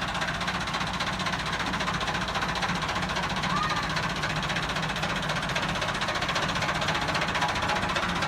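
Massey Ferguson 375 tractor's four-cylinder diesel engine running steadily, just started after standing idle for many days.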